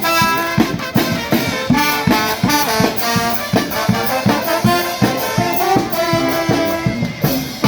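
Charanga brass band playing a lively tune, trumpets and trombones carrying the melody over a quick, steady beat.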